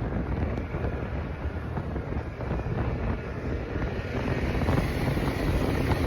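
Wind buffeting the microphone on a moving ATV, a steady rumbling rush with the vehicle's running underneath it.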